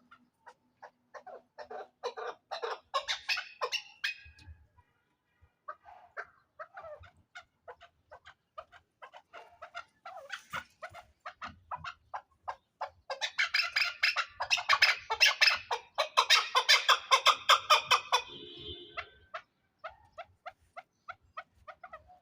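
A flock of captive partridges calling: rapid runs of short, clucking calls, swelling into a loud chorus of many birds from about halfway through before thinning out again.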